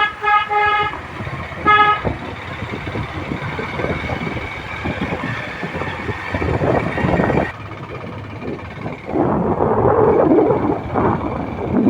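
Vehicle horn, most likely the riding motorcycle's own, honking in a few short beeps in the first second and once more just before two seconds in, then steady road-vehicle noise with louder swells.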